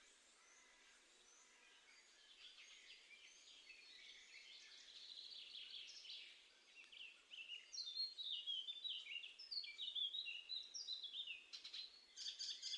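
A small songbird singing a long run of quick, high twittering notes, many of them falling in pitch. It builds from faint about two seconds in and is loudest in the second half.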